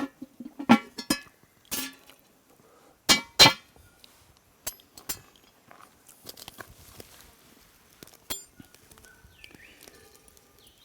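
Metal cooking utensils knocking and clinking against a frying pan of frying chips and dim sims: a run of sharp clinks, some ringing briefly, with two loud knocks about three seconds in, then scattered fainter ticks.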